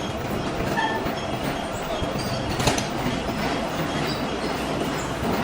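Metal lathe running as it machines a steel coupling, a steady mechanical noise with a sharp click about two and a half seconds in.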